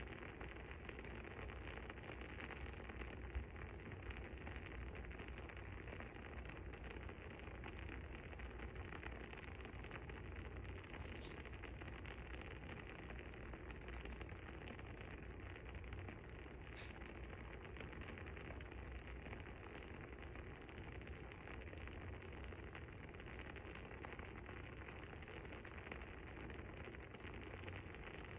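Fire crackling faintly and steadily with a soft hiss, broken by a few sharper pops, the loudest about three seconds in.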